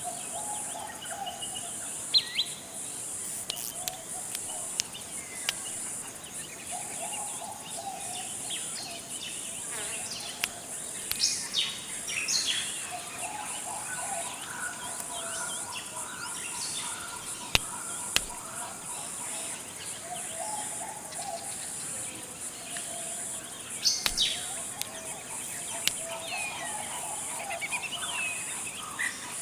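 Forest ambience: a steady high-pitched insect drone under scattered bird calls and chirps, with a lower warbling call recurring every few seconds and a few sharp clicks.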